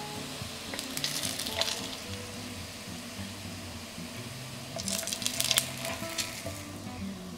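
Potato pancakes sizzling in hot oil in a nonstick frying pan. The sizzle flares twice, about a second in and again around five seconds in, as a wooden spatula scrapes under a pancake and lifts it. Soft background music plays underneath.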